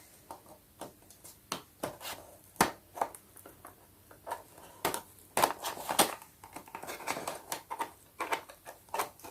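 A small cardboard toy box and its packaging being opened by hand: irregular light clicks, taps and crinkles, with a denser rustling stretch in the middle.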